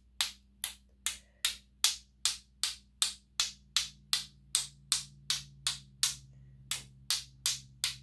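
Loaded paintbrush being tapped with sharp, even knocks, about two to three a second, to spatter paint as snow specks.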